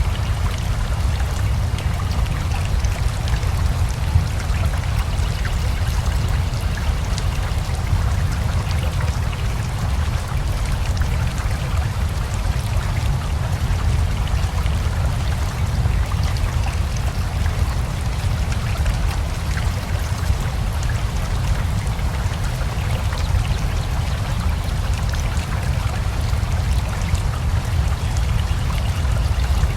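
Steady rain falling together with a flowing river, an even wash of water noise with a deep constant rumble underneath and fine drop patter on top.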